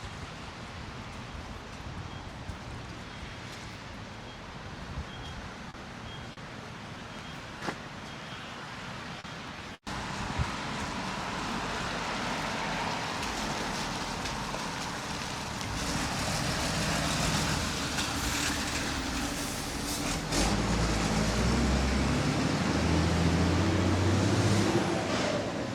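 Street traffic: motor vehicle engines running close by on a city street, growing louder in the second half and loudest near the end. Faint repeated beeps can be heard in the first part.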